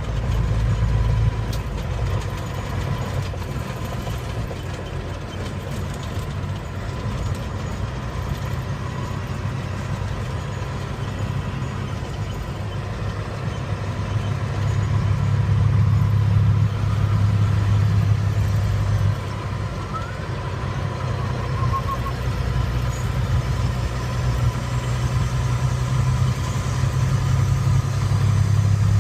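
Truck engine and road noise while driving with a loaded trailer: a steady low drone that swells louder for several seconds about halfway through and again near the end.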